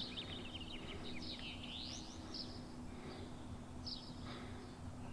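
Faint birdsong: scattered short chirps and quick twittering calls, over a low steady hum.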